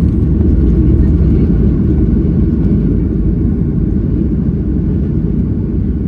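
Steady low rumble of a Boeing 737-800's CFM56 jet engines and airflow, heard inside the passenger cabin. It eases off slightly over the few seconds.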